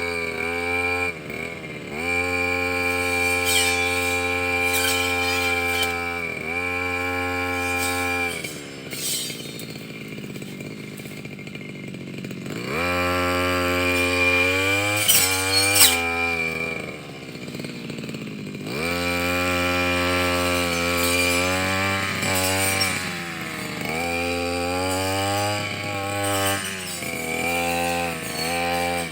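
Petrol brush cutter engine running at high revs, dipping briefly several times and twice dropping back to idle for a few seconds before revving up again.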